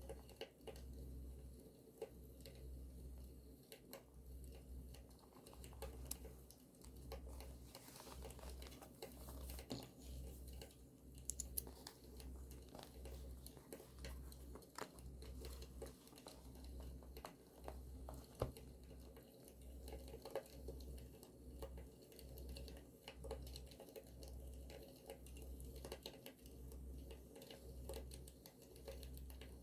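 Faint crackling of a campfire sound track, with sparse sharp pops and light paper crinkling and tearing from journal work, over a low rumble that pulses on and off.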